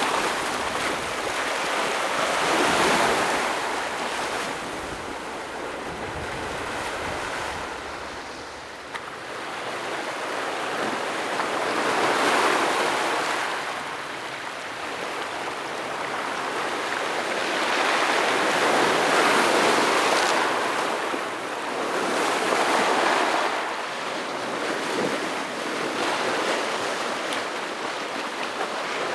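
Ocean waves breaking on a rocky shore, the surf swelling and falling away in slow surges every several seconds.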